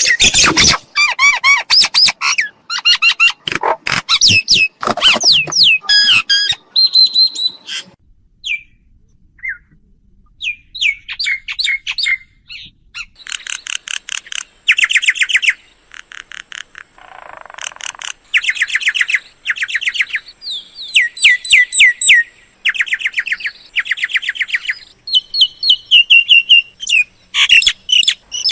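Myna calls: bursts of fast, harsh chattering notes and squawks mixed with clear whistles, repeated in runs with short gaps. The calls thin out for a few seconds about a third of the way in, then pick up again.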